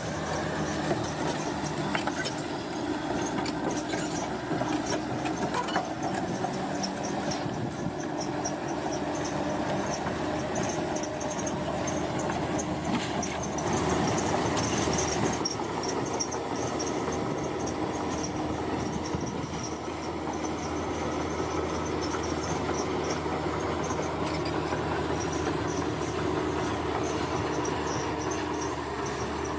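Bulldozer at work: its diesel engine runs steadily under load while the steel tracks squeal and clank, with a louder surge about halfway through.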